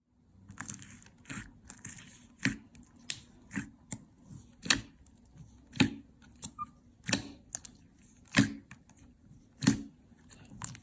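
Slime being handled and squeezed, giving sharp crackling pops, the loudest about once a second, with smaller crackles between them.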